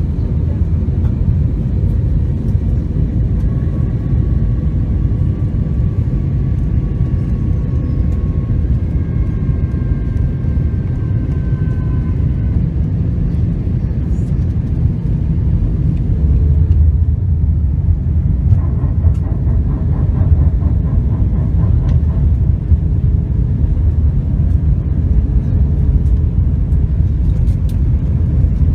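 Airliner on its landing approach: a steady low rumble of engines and rushing air, with faint high whining tones that slowly fall in pitch. The rumble grows louder about halfway through.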